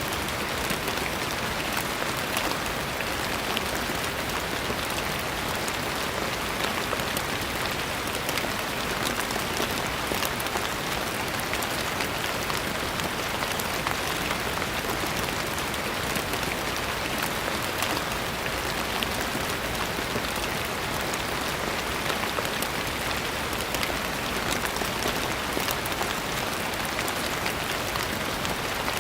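Steady rain falling and pattering on a surface, a dense even hiss full of fine drop taps that neither builds nor fades.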